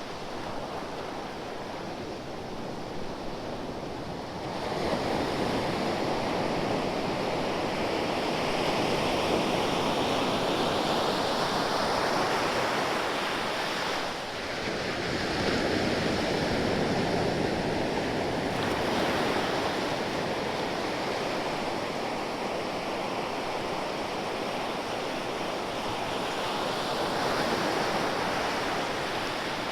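Ocean waves breaking and washing on a shore in a steady surf. Two larger waves come in, one about five seconds in and another near the middle, each swelling and then slowly falling away.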